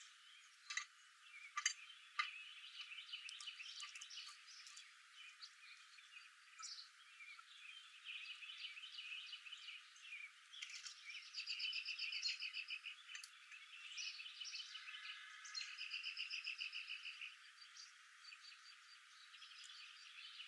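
An outdoor chorus of small animals: overlapping chirps and rapid, evenly pulsed trills, with a few sharp clicks about two seconds in.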